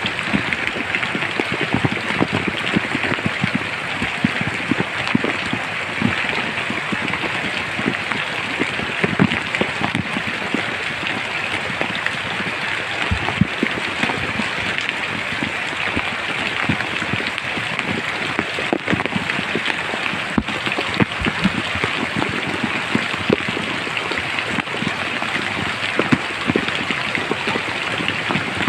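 Steady rain falling in a forest: an even hiss of rainfall with many individual drops striking close by.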